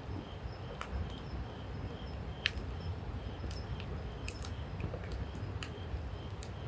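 Wood campfire crackling: scattered sharp pops, about one a second and sometimes two close together, the loudest about two and a half seconds in, over a low steady rumble.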